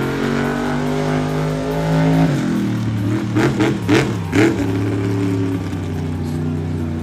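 Monster truck engine running hard, its pitch dropping about two seconds in, then three or four quick sharp bursts of throttle or impacts before it settles back to a steady drone.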